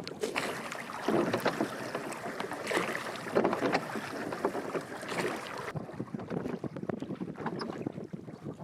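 Water sloshing and splashing around a small rowboat on the move, with scattered small knocks and some wind on the microphone. The high hiss thins a little over halfway through.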